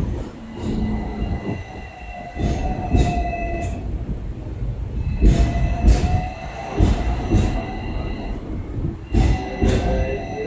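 Train wheels squealing on the rails, several high steady tones that fade in and out, with repeated sharp clacks of the wheels over the track.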